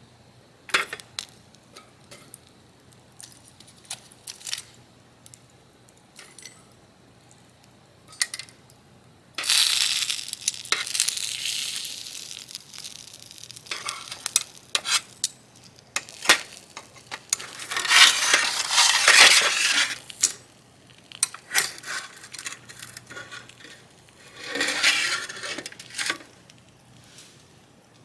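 Metal utensils clinking and tapping on a small iron griddle, with three stretches of sizzling, each a couple of seconds long, as meat is turned on the hot plate.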